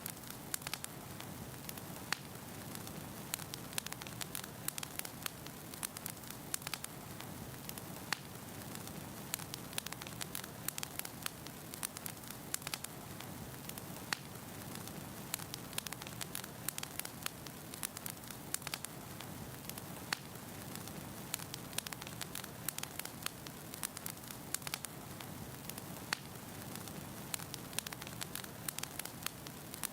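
Firewood burning in a fireplace, crackling with many small irregular snaps and pops over a steady soft hiss.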